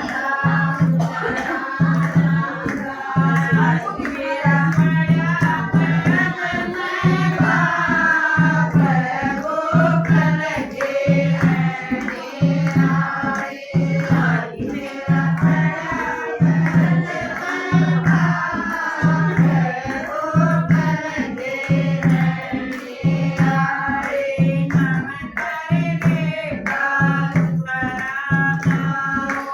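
A devotional Hindi bhajan sung with a steady drum rhythm of about two beats a second.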